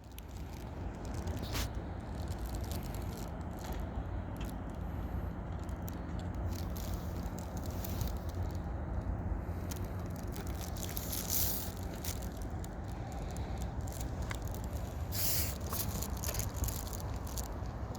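Water birds in the water: scattered splashy crackles and clicks over a steady low rumble.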